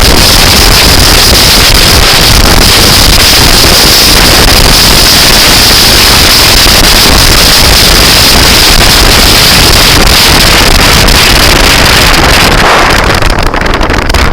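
Loud, steady wind noise buffeting the microphone, with a low rumble beneath it; it begins to break up and dip near the end.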